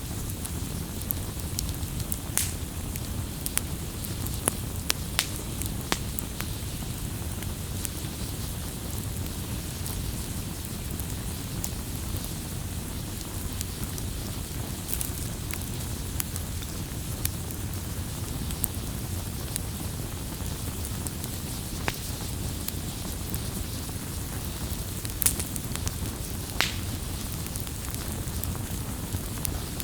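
Wood campfire burning, a steady low rumble of flames with scattered crackles and sharp pops, a few louder snaps about two and five seconds in and near the end.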